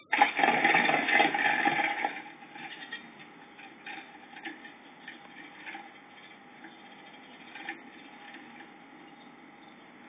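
Small birds scuffling inside a wooden nest box, a blue tit among them: a dense burst of fluttering and scrabbling for about two seconds, then scattered scratches and taps of claws on the wood.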